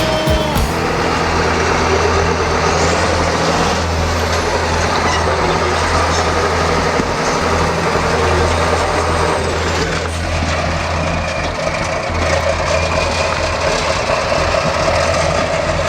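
Steyr trial truck's diesel engine running steadily under load, with an abrupt change in the sound about ten seconds in.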